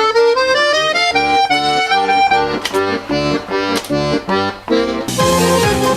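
An accordion duet playing a tune. A melody line moves over light accompaniment, and about five seconds in the sound fills out with full chords and bass notes.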